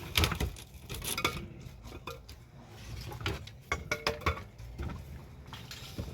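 Irregular clattering: a quick series of knocks and clinks from hard objects being handled and set down, some with a brief ring.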